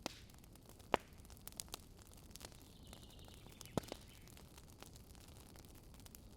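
Wood campfire burning with scattered sharp crackles and pops over a low steady hiss. The loudest pops come about a second in and near four seconds, with a faint higher hiss in between.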